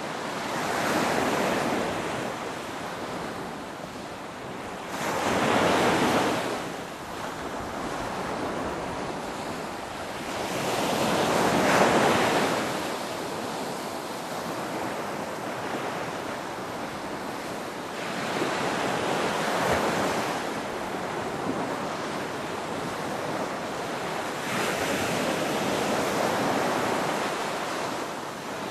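Ocean waves breaking and washing ashore, a steady surf that swells every five or six seconds, the loudest wave about midway through.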